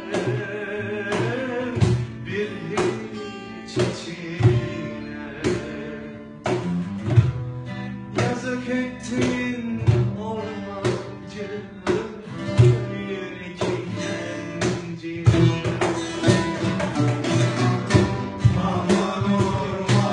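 Acoustic Turkish ensemble playing: plucked oud and acoustic guitar over a steady pattern of cajon and darbuka hits.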